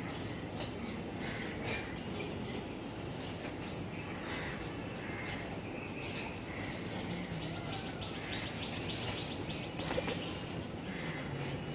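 Small birds chirping now and then over steady background noise, with scattered light clicks.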